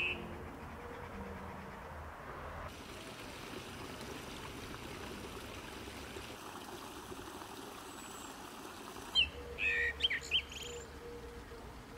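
A steady background hiss, with a few short, high bird chirps in quick succession about nine to eleven seconds in.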